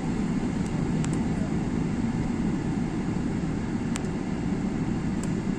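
Steady low rumble of a jet airliner's engines, with a couple of faint clicks about one and four seconds in.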